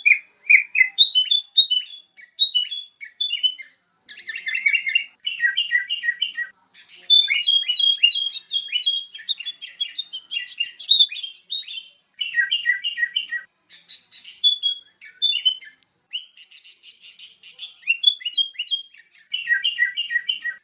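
Sooty-headed bulbul (kutilang) calling: quick runs of short chirping notes in phrases a second or two long, with brief pauses between them.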